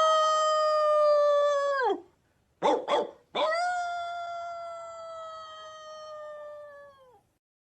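A canine howling: a long, steady howl that drops in pitch as it ends about two seconds in, two short yips, then a second long howl that slowly sinks in pitch and fades away.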